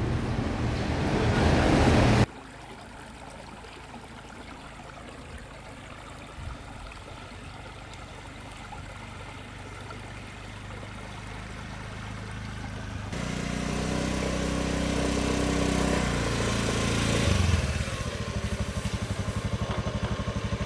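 Motorbike engine running on the move, rising in loudness before an abrupt cut about two seconds in. Later a steadier engine note builds, and near the end it settles into an even, pulsing idle.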